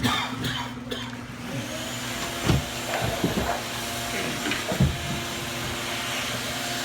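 An electric blower-type machine runs with a steady whir, growing louder about a second and a half in. A few scattered knocks sound over it.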